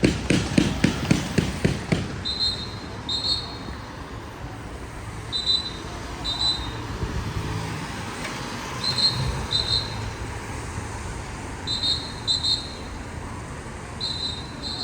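Electronic beeper sounding pairs of short, high-pitched beeps, a pair about every three seconds, over steady street noise. Rapid knocks clatter in the first two seconds.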